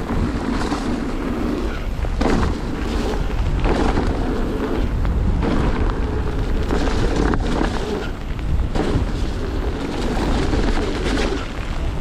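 Mountain bike riding down a wet, sandy downhill trail: wind buffets the camera microphone with a heavy rumble, and the tyres hiss on the wet ground while the bike knocks and rattles irregularly over bumps.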